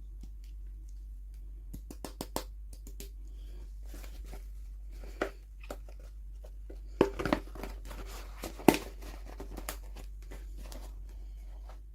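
Toy packaging being handled and opened by hand: scattered clicks, taps and short crinkling and tearing sounds, with a cluster of louder ones about seven seconds in and a sharp click near nine seconds, over a steady low hum.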